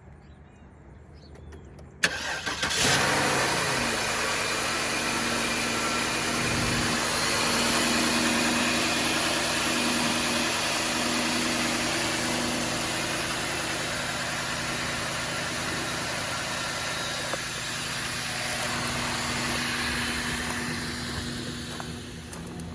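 2005 Cadillac DeVille's 4.6-litre Northstar V8 cold-started about two seconds in, catching almost at once and then idling steadily. The idle is smooth, without the rough idle typical of a blown Northstar head gasket, even at 220,000 miles.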